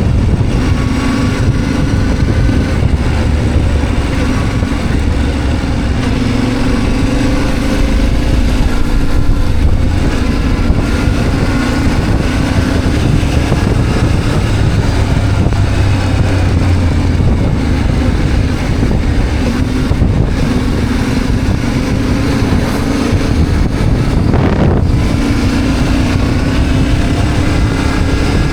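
Motorcycle engine running steadily at road speed, its pitch drifting gently up and down, with wind rushing over the microphone.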